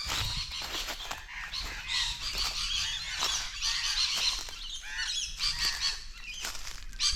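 Many birds calling at once with dense, overlapping short alarm calls, a chorus of danger calls as they mob what they take for a snake.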